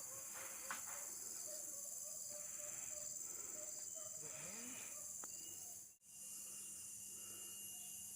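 Steady high-pitched chorus of insects chirring outdoors, with faint scattered sounds beneath. The sound drops out for an instant about six seconds in, then carries on.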